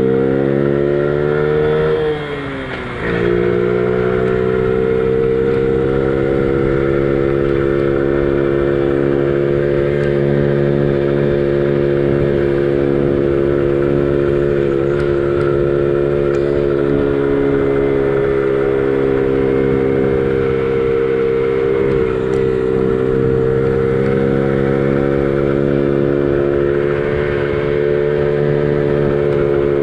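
Honda Gorilla's small single-cylinder four-stroke engine under way: the revs climb, drop briefly about two seconds in as at a gear change, then hold steady at cruising speed with slight rises and falls.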